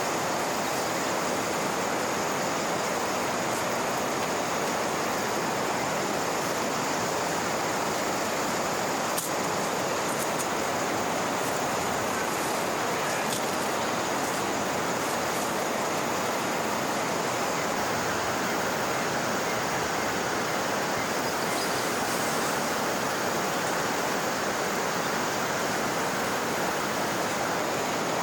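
River water rushing steadily, a constant even hiss, with a single small click about nine seconds in.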